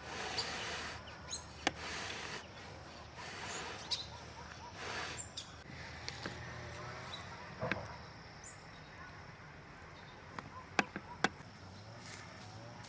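Outdoor ambience with small birds chirping now and then, over short rustling or scraping noises in the first few seconds and a few sharp clicks near the end.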